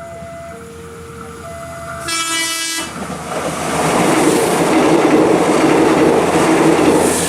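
A two-tone warning signal alternating between a lower and a higher note. About two seconds in, a train's horn gives a short blast. A passenger train then runs past at speed, and the rumble and clatter of its wheels on the rails build to a loud roar.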